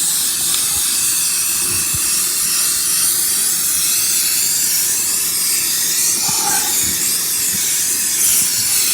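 Aerosol spray can of gray primer hissing in one long, steady spray.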